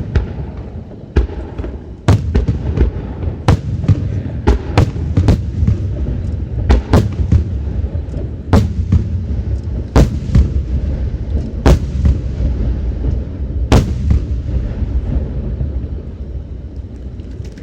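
Aerial fireworks shells bursting, about twenty sharp booms in irregular succession over a continuous low rumble, thinning out over the last few seconds.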